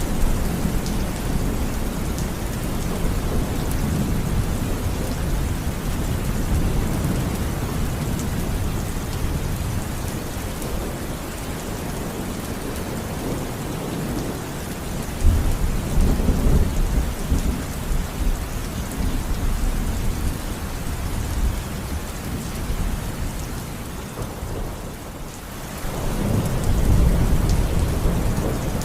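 Steady rain falling with rolling thunder; a loud rumble of thunder swells about halfway through and another near the end.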